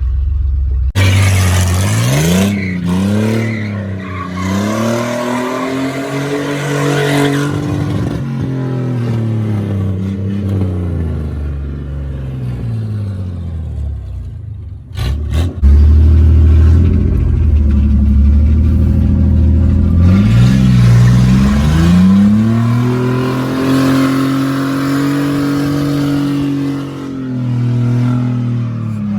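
Truck engine revving hard: it climbs in pitch, holds high and falls back, then cuts off abruptly about halfway through and revs up again in a second long, high run.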